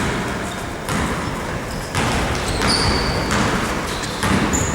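Basketball play in a gym: the ball bounces on the court about once a second, with short, high sneaker squeaks on the floor near the middle and end.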